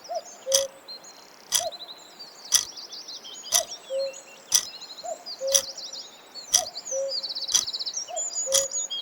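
Small birds chirping and trilling. Under them, a sharp click sounds once a second, each followed by a short, low, hoot-like tone, in an even timer-like rhythm.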